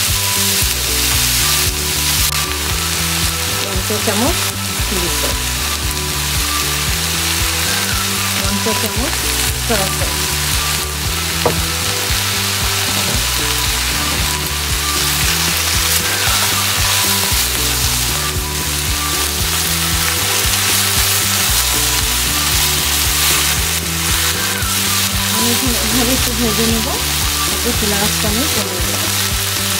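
Chicken and vegetable stir-fry sizzling steadily in a hot wok.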